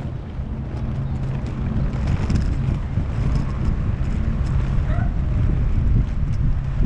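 Wind buffeting the microphone of a moving skater, a loud rumble with a steady low hum underneath and a few faint ticks.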